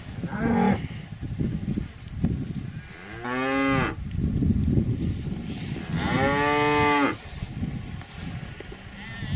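Domestic cows mooing: two moos about a second long each, roughly three seconds apart, the second a little longer, over a low steady rustling.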